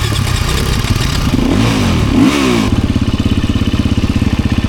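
Enduro dirt bike engine revved in a few quick blips, rising and falling, then settling to a steady idle a little past halfway.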